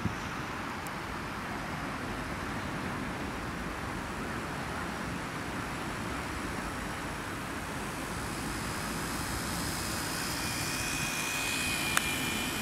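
Propeller motor of a radio-controlled bird-shaped model aircraft whining over a steady wash of wind noise. The whine grows louder from about two-thirds of the way in and rises in pitch near the end as the model makes a low pass. There is a sharp click at the start and another shortly before the end.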